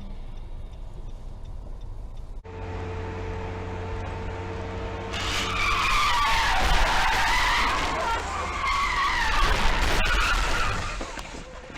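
Car tyres squealing in a long skid for about six seconds, the squeal wavering up and down in pitch. Before it, a steady low engine hum.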